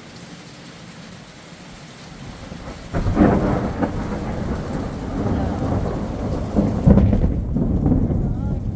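Steady rain, then a thunderclap about three seconds in that rolls on as a loud rumble. A second sharp crack of thunder comes later.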